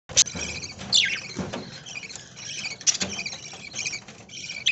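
A flock of budgerigars chattering: a busy stream of short high chirps and sharp calls, several sliding down in pitch.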